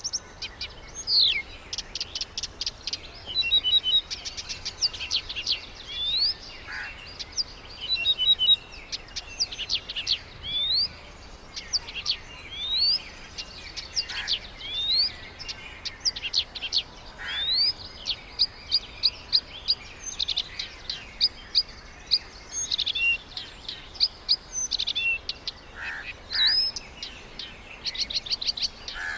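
Birds calling: high-pitched quick runs of short notes and rising slurred whistles, repeated every second or two.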